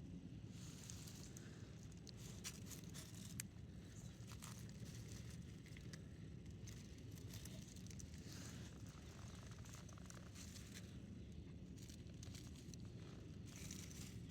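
Faint rustling and crackling with scattered sharp clicks over a steady low rumble.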